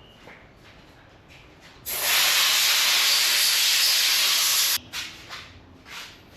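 Compressed-air blow gun from an air compressor blasting for about three seconds, a loud steady hiss that starts sharply and cuts off suddenly, blowing out a motorcycle brake master cylinder being cleaned for reassembly. A few small handling knocks come before and after.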